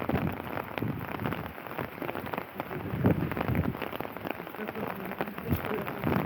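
Steady rain hitting an open umbrella close overhead: a dense, uneven run of sharp drop ticks over a constant hiss.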